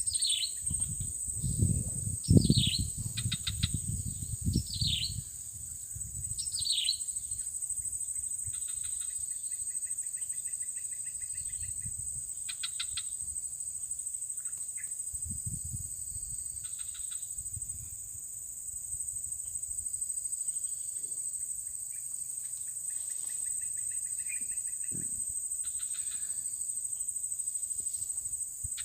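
Insects, crickets or cicadas, keep up a steady high drone. Over it a bird gives four short falling calls in the first seven seconds, with scattered chirps and rapid trills after that. Low rumbling and knocking are loudest in the first five seconds and come back briefly near the middle.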